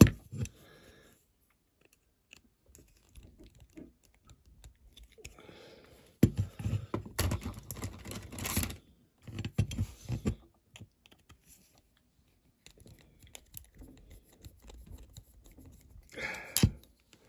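A small hand tool clicking and scraping against a Corgi diecast toy car as a light is prised out of it: irregular small taps and scrapes, sparse at first, busier through the middle and again near the end.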